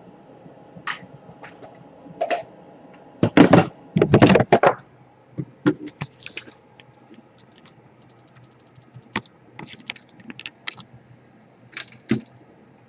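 Small hard laptop parts being handled and set down: irregular clicks and plastic-and-metal clatter, a dense loud run of it a few seconds in, then scattered light clicks.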